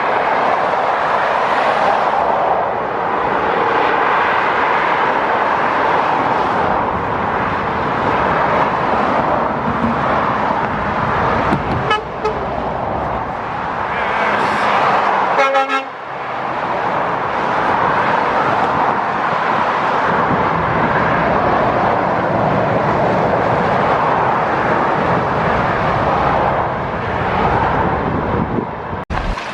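Steady road traffic noise from vehicles on a motorway, with a brief horn toot about halfway through.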